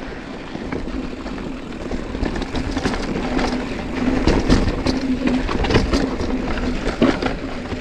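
Mountain bike rolling fast over a rough, rocky dirt trail: steady tyre and wind noise with frequent rattles and clacks from the bike, which get busier about three seconds in.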